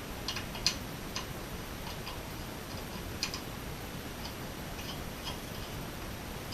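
Irregular light clicks and taps of small parts or hand tools being handled, a dozen or so, with the sharpest ones about a second in and about three seconds in.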